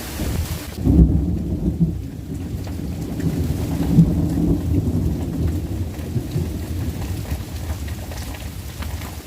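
Thunder rumbling over light rain: a low rumble that begins about a second in, with louder peaks near one and four seconds, then slowly eases off.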